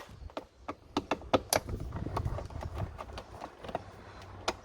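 Irregular sharp clicks and taps, about a dozen in all, from hands and a tool working the screw that holds the Scania S door trim panel.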